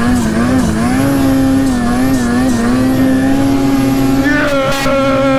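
Snowmobile engine running hard at high revs as the sled climbs a slope, its pitch wavering up and down with the throttle; about four seconds in a second, higher steady engine note joins.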